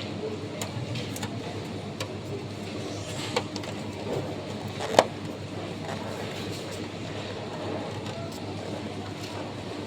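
Steady background hum with a few scattered sharp clicks and knocks, the loudest about five seconds in.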